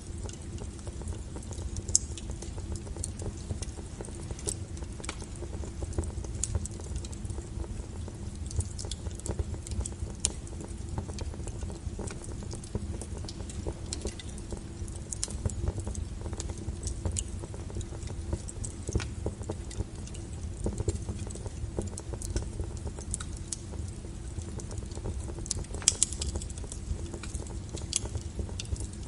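Wood fire burning, with irregular sharp crackles and pops of firewood over a steady low rumble.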